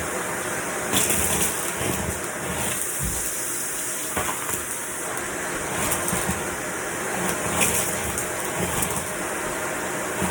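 Vacuum cleaner running, a steady rushing of motor and airflow with a few brief louder swells.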